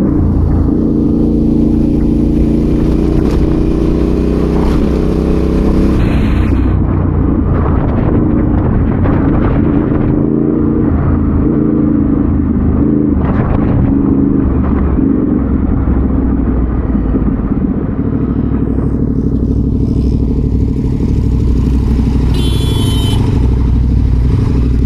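Adventure motorcycle engine running steadily while riding off road, with scattered knocks and clatter through the middle. A brief high-pitched sound comes in near the end.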